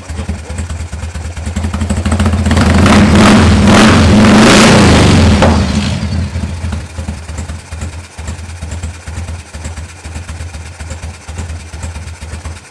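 Carbureted 1996 Harley-Davidson's air-cooled V-twin idling with a slow, lumpy beat. It is revved once about two seconds in, held up for a few seconds, and drops back to idle at about six seconds.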